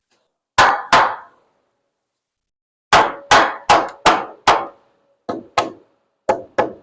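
Hammer blows on wooden wall framing, about eleven strikes in quick groups: two, then five, then two and two, with a faint ring after some of them.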